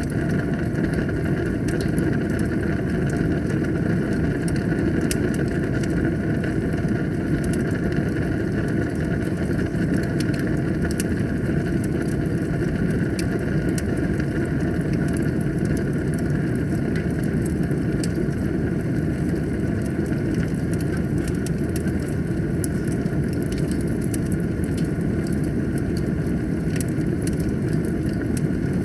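Wood fire burning in a fireplace: a steady low rumble of flames with many small, sharp crackles scattered through it.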